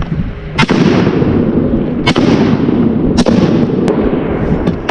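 Three shotgun shots fired at flushing ducks, about a second apart, with a fainter sharp crack shortly after the third and a continuous rushing noise underneath.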